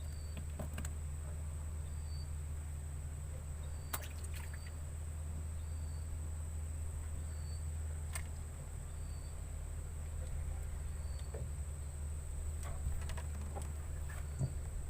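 Quiet outdoor ambience: a steady low hum and a steady high whine, with a short high chirp repeating about every two seconds and a few light clicks.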